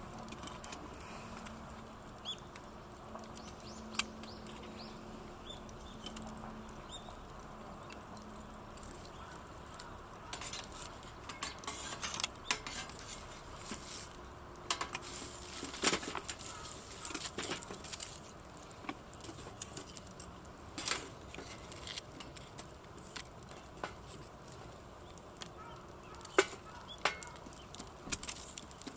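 Wood campfire crackling, with irregular sharp snaps and pops over a low steady rush. The pops come thicker in the middle.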